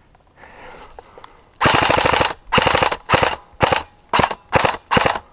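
Airsoft gun firing on full auto: a longer burst of rapid shots about a second and a half in, then six short bursts in quick succession.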